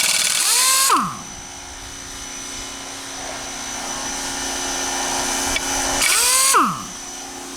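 Vacuum cleaner motor running steadily. Twice, about six seconds apart, comes a loud rushing surge of suction lasting under a second, with a whistle sweeping in pitch.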